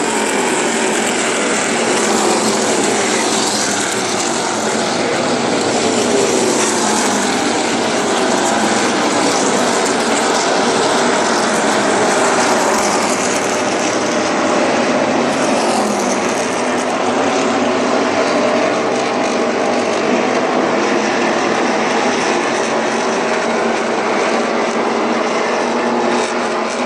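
NASCAR Truck Series race trucks' V8 engines running at racing speed, many at once, with overlapping pitches sliding up and down as the trucks pass.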